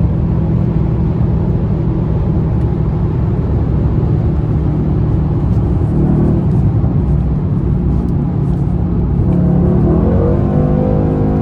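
Mercedes-AMG C63 S 4.0-litre biturbo V8 running hard at speed, with revs climbing toward the end.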